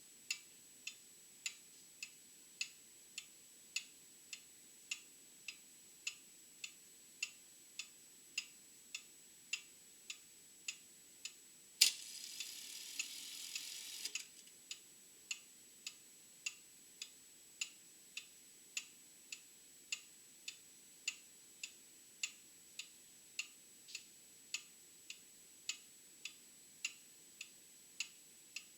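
Old mechanical clock ticking at an even pace, a little under two ticks a second. About twelve seconds in, a sharp loud click is followed by roughly two seconds of hiss that ends with another click, while the ticking goes on.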